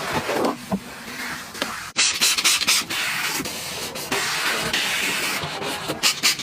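Car-wash water spray hissing steadily, with the sound changing abruptly about two seconds in and again near the end.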